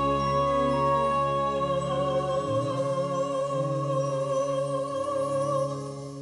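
A woman singing one long high note with vibrato over a wind orchestra's sustained chords; the note ends shortly before the close and the band plays on more softly.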